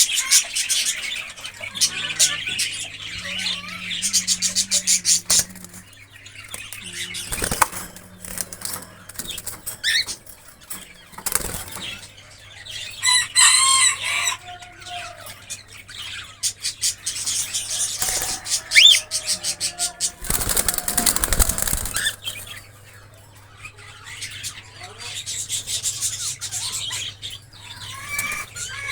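Cockatiels in a cage flapping their wings in rapid flurries, the loudest about twenty seconds in, with a few short chirping calls between them.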